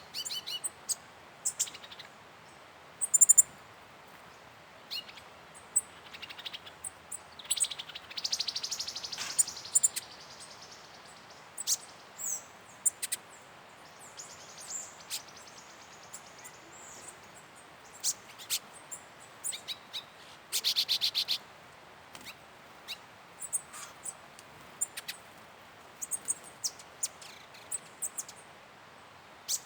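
Several wild forest birds calling with short, high chirps and whistles. A buzzy call comes about eight seconds in, and a loud, fast trill about twenty-one seconds in.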